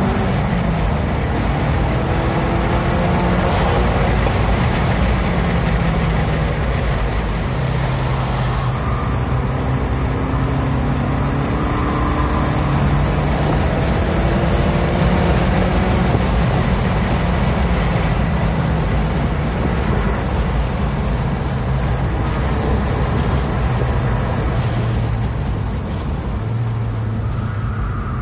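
2016 Ford Focus RS's turbocharged 2.3-litre four-cylinder heard from inside the cabin, pulling hard at full throttle with an upshift from third to fourth gear. It then eases off as the car slows for a tight corner near the end, over steady wind and tyre noise.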